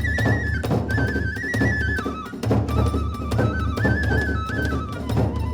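Kagura accompaniment music: a high bamboo flute plays a melody that steps up and down, over steady taiko drumming.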